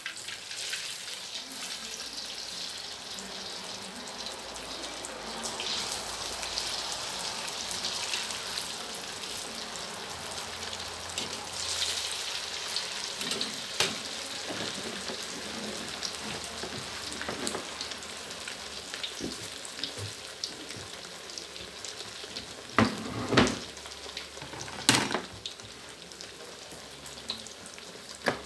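Slices of bread topped with minced pork spread deep-frying in hot oil in a steel wok, a steady sizzle with fine crackling. A few sharp knocks sound in the last few seconds.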